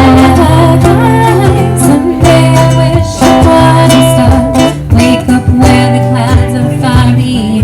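Live band music: strummed acoustic guitar with steady bass notes under a singing voice, in a country style.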